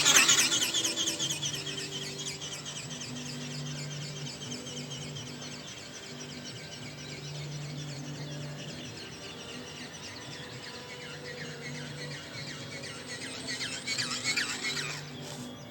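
Rapid rhythmic chattering of an RC ornithopter's flapping wings and drive, louder as it passes close at the start and again about 14 seconds in.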